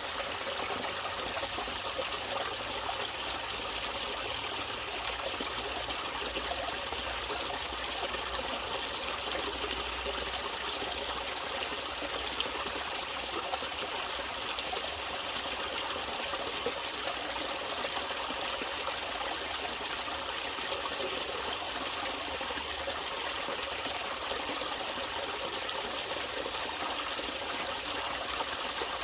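Natural stream water trickling and splashing steadily.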